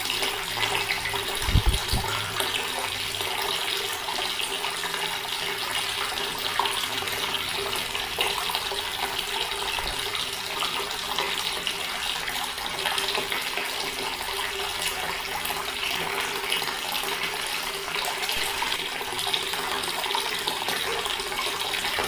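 Water running steadily from a tap and splashing, a constant hiss with no breaks. A couple of brief low thumps come about a second and a half in.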